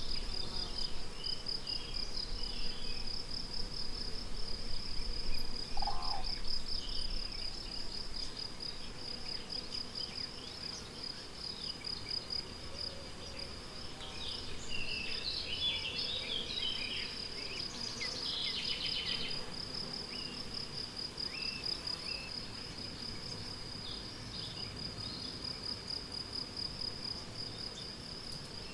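Meadow crickets chirping in a steady, evenly pulsed stream, with scattered songbird calls and a busier flurry of birdsong, including a rapid trill, midway through. A low rumble sits under the first several seconds.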